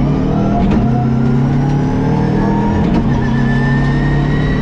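Subaru Impreza WRX STI rally car's turbocharged flat-four engine pulling under hard acceleration, its pitch climbing steadily, with a thin whine rising above it.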